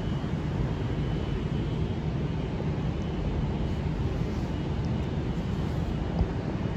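Steady low rumble and hiss of railway station background noise, with a faint steady hum and no distinct events.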